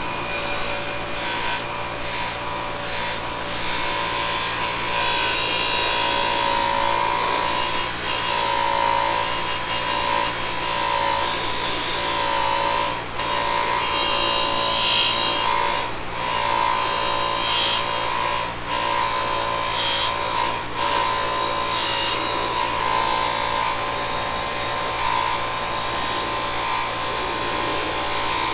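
Bench buffing machine spinning an 8-inch Scotch-Brite wheel against an aluminum Honda C70 engine case: a continuous scraping rub over the motor's steady hum and whine.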